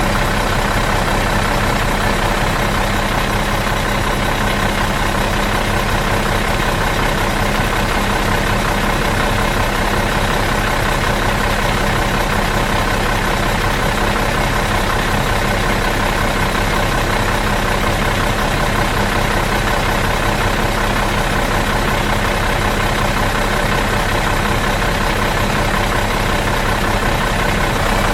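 Bus engine idling steadily out of gear, an even unchanging hum.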